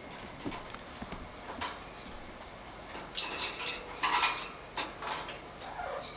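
Handling noises: a scattered run of light clicks, knocks and clatters as the chicks' container and the home-made incubator are handled, busiest about halfway through.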